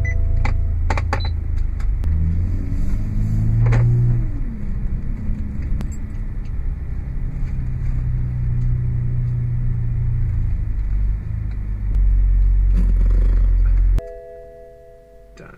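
Car engine running at low speed while the car is parked, with a brief rev that rises and falls about four seconds in. The engine cuts off suddenly near the end, and a steady electronic warning chime sounds.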